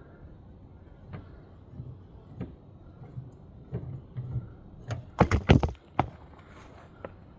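Scattered knocks and clinks of metal hand tools against parts, with a quick cluster of louder knocks a little past five seconds in.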